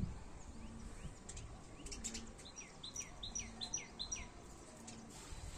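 A bird calling: a quick run of about six high chirps, each sweeping sharply downward, packed together in the middle, with a few fainter chirps before them. A low, steady rumble lies underneath.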